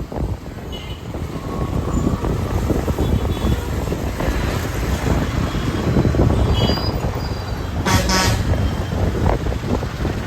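City road traffic heard from a moving motorbike, with wind buffeting the microphone. Vehicle horns honk briefly several times, with one loud short horn blast about eight seconds in.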